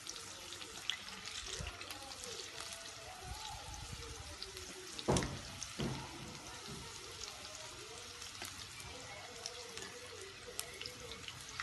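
Stuffed okra frying in hot oil in a steel kadai, crackling steadily, while a metal slotted skimmer scrapes and taps in the pan as the browned pieces are lifted out. Two sharper metal knocks a little past the middle.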